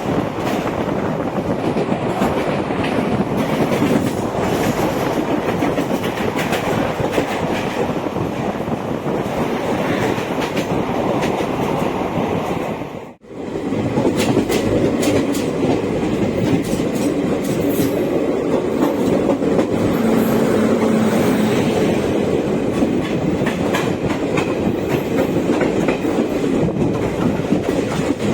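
Passenger train running along the track: a steady rumble with wheels clicking and clattering over rail joints. The sound cuts out for a moment about halfway through.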